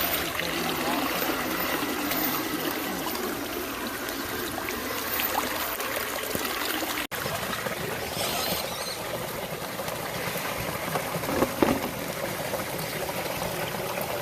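Steady running water, a trickle or small stream, with a brief cut-out about halfway and a short louder noise near the end.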